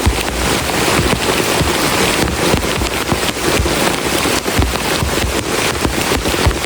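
Heavy rain falling steadily on a camping shelter: a dense hiss of rain crowded with individual drop hits, with occasional heavier low thuds.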